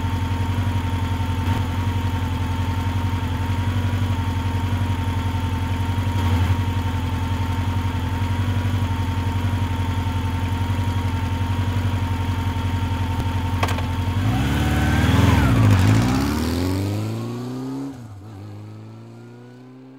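Motorcycle engine idling steadily, then revving and pulling away about fourteen seconds in, its note rising through the gears as it fades into the distance.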